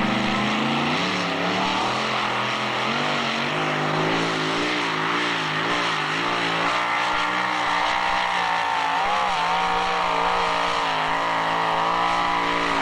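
Two-wheel-drive pulling tractor's engine at full throttle under load during a pull, its pitch wavering up and down through the middle and then climbing slowly near the end.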